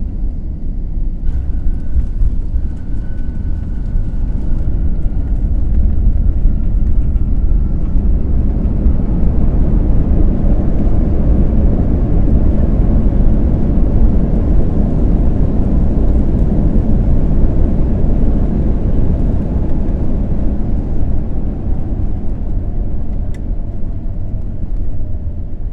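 Airbus A321 landing heard from inside the cabin: a loud, heavy rumble of the wheels on the runway and the jet engines that builds for several seconds, then eases as the aircraft slows. A faint whine falls in pitch near the end as the engines wind down.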